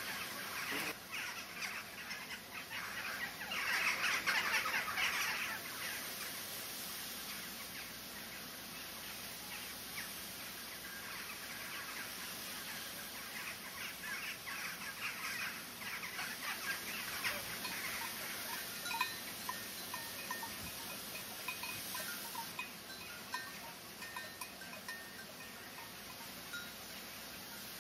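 Outdoor ambience with birds calling in the background: short, scattered chirps throughout, and a louder, denser stretch of calling a few seconds in.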